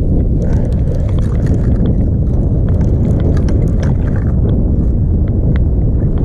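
Steady wind rumble buffeting the microphone on an open boat, with scattered light clicks and taps throughout.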